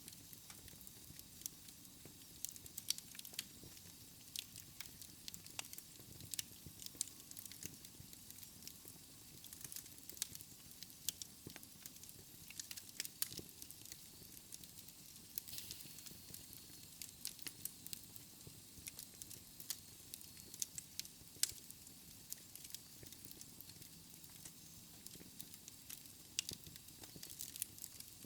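Wood fire crackling in a fireplace: many sharp, irregular crackles and pops over a faint steady hiss.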